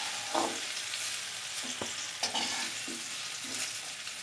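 Hot oil sizzling in a kadai while fried ash gourd pieces are scooped out with a spatula, with a few short scrapes and knocks of the spatula against the pan.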